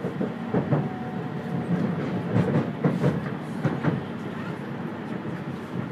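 E2 series Shinkansen running, heard from inside the passenger car: steady rolling noise with several quick pairs of clunks as the wheels pass over track joints.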